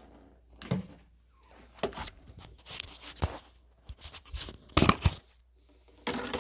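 Handling noises: rustling, as of packaging, and short knocks and clicks of objects being moved, with the loudest cluster of clicks about five seconds in.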